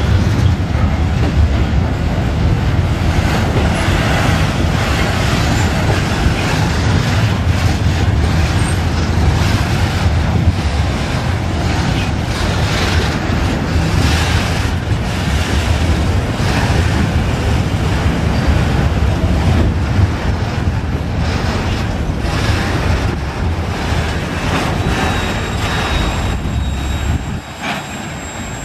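Loaded freight train rolling past at close range: a steady heavy rumble with repeated clacks of wagon wheels over the rail joints. The sound drops off sharply near the end.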